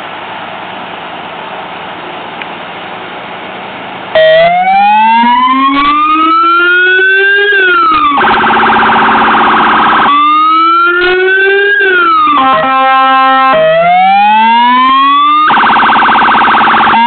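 Police car electronic siren, switched on about four seconds in after steady engine idle, loud, cycling through a slow rising-and-falling wail, a harsh buzzing horn tone and a rapid pulsing tone.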